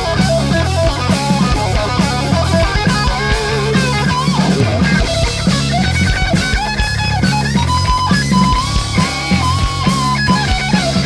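A rock band playing live: distorted electric guitars over bass and a drum kit, with no vocals.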